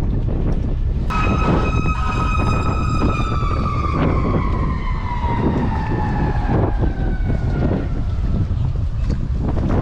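Wind buffeting the microphone over a steady low rumble. About a second in, a high pitched tone starts abruptly and slides slowly downward in pitch for about six seconds before fading out.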